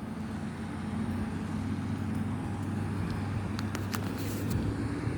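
Steady low engine hum from a vehicle, with a few light clicks about three and a half to four and a half seconds in.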